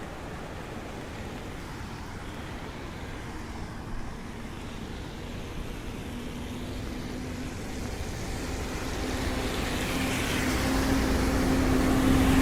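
A motor vehicle approaching, growing steadily louder over the last few seconds with a humming engine or motor tone, over a steady hiss of rain and street noise.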